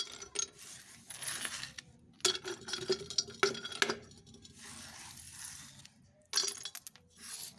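Crisp crunching of hard clay (mitti) being bitten and chewed, in several separate bursts of brittle clicks and clinks with softer gritty chewing between them.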